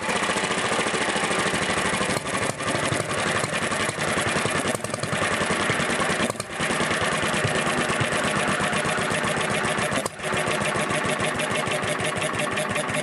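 A Kubota Auto Engine EN stationary oil engine is running steadily on its first test run after repair. Its firing beats come fast and even, with a few brief dips in level.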